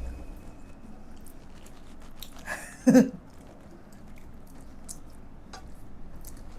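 Close-miked chewing and biting of food, with small wet mouth clicks throughout. One brief, louder vocal sound comes about three seconds in.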